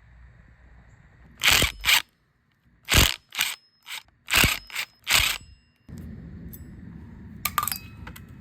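A quick run of about eight short, sharp mechanical bursts, each a fraction of a second long, followed a couple of seconds later by a few lighter clicks. It is tool work on the bike.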